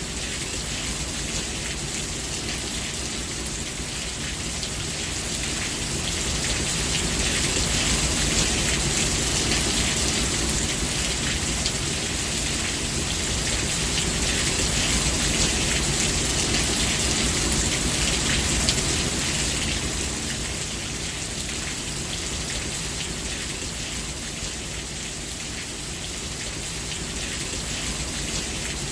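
Steady heavy rain falling on surfaces, a dense hiss of drops with a low rumble beneath, swelling louder for a stretch in the middle.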